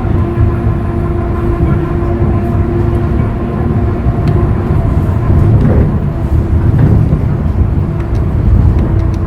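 Hyundai Green City CNG bus's C6GB natural-gas engine running under way, a steady low rumble. A steady whine over it fades out about three seconds in.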